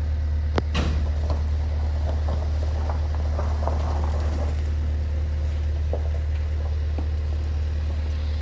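An engine running steadily at idle, most likely the skid steer's diesel, with a couple of sharp clicks or knocks about half a second in.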